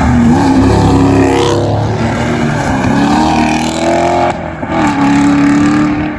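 Car engines running and revving, their pitch rising and falling and then holding steady, with a brief drop about four and a half seconds in.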